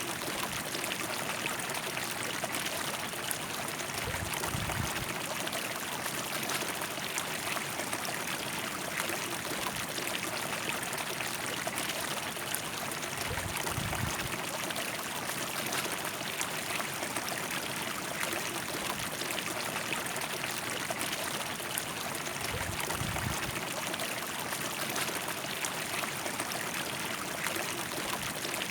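River water rushing and splashing steadily over its bed, an even rushing hiss with no let-up. Three brief low rumbles come about nine seconds apart.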